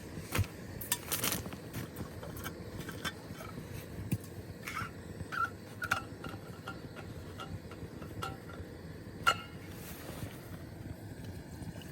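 Scattered small clicks, clinks and scrapes of hard objects being handled over a steady background hiss, with one sharper knock about nine seconds in.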